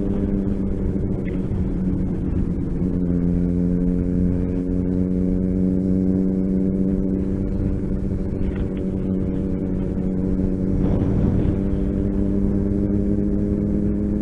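Motorcycle engine running at a steady cruising speed, with low rumble underneath; its pitch eases slightly lower about two and a half seconds in.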